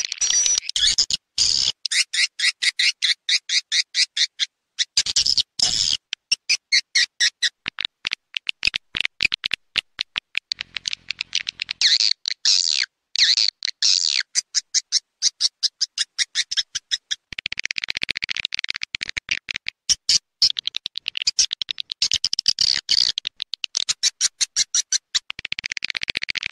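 Swiftlet lure-call recording: fast trains of sharp, high chirps and twitters, several a second, broken by short pauses. This is the kind of call sound that edible-nest swiftlet farmers play to draw birds into a bird house.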